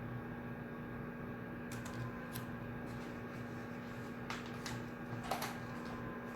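Study-room ambience: a steady low hum with scattered light clicks and taps, a couple about two seconds in and a small cluster between four and five and a half seconds in.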